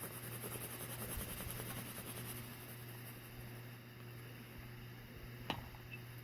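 Faint scratching of a watercolour pencil drawn over wet watercolour paper, over a steady low hum, with one sharp click about five and a half seconds in.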